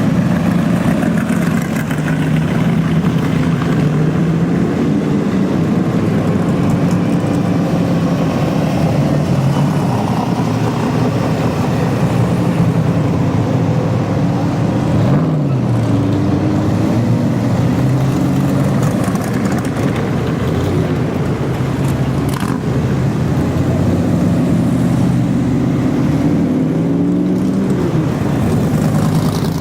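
Cars driving past one after another, their engines running low and rising and falling in pitch as they rev, most plainly about halfway through and near the end.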